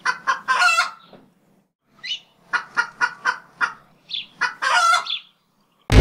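Chicken clucking: a quick group of three clucks, a pause of about a second, then a run of about eight short clucks ending in a longer call. Right at the end a loud, low sustained tone cuts in.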